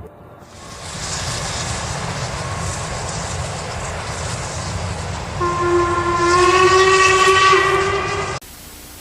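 A train running past with a steady rumble and rush of noise, then about five seconds in its horn sounds a loud, held chord for about three seconds before the sound cuts off suddenly.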